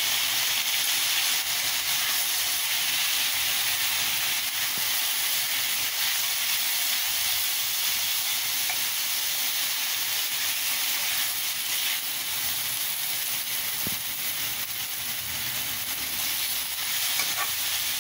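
Flat beans (avarakkai) stir-frying in a metal pan: a steady sizzle as a spatula stirs them, with a couple of faint clicks in the second half.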